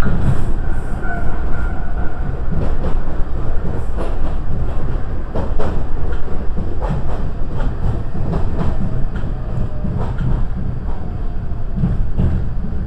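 Iyotetsu Yokogawara Line train running on the rails: a steady low rumble with scattered clicks and knocks from the wheels over the track.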